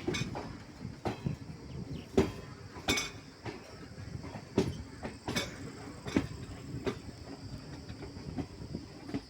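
Passenger train running on the rails: a low rumble with irregular sharp knocks of the wheels about once a second.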